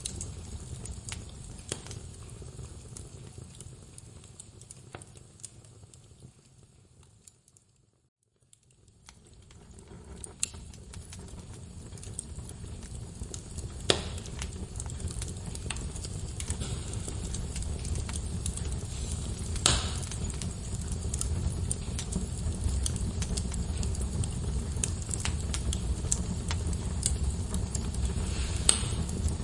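Wood fire crackling in a fireplace: a steady low rumble of flames with scattered sharp pops from the burning logs. The whole sound fades away to near silence about eight seconds in, then swells back up over the next few seconds.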